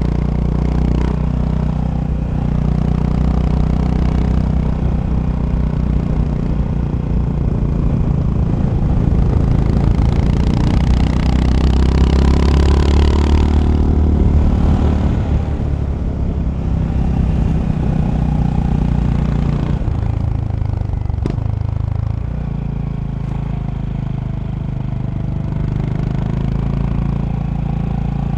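Honda GB350's single-cylinder engine running while the motorcycle is ridden, getting louder under throttle around the middle and easing off about two-thirds of the way through, with a single click soon after.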